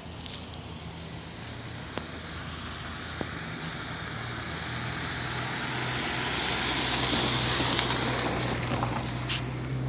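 Rushing engine noise of something passing, swelling slowly to a peak about eight seconds in and then easing off, over a low steady hum.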